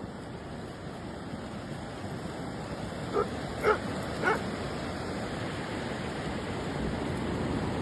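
A dog barking three times in quick succession, a little past three seconds in, over a steady background rush.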